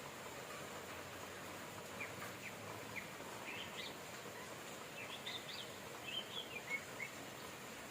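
Steady rain hiss with small songbirds chirping over it: a few short chirps from about two seconds in, then a busier run of quick rising and falling chirps between about five and seven seconds.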